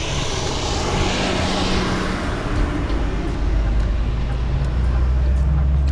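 Semi truck's diesel engine running, with road noise inside the cab. A broad hiss swells and fades over the first couple of seconds, and the engine's low hum grows stronger in the second half.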